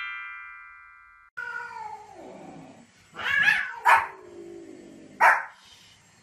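A bright chime fades out over the first second. Then a cat gives a long meow falling in pitch, there is another louder call, and a white Pomeranian gives two short sharp barks about a second apart.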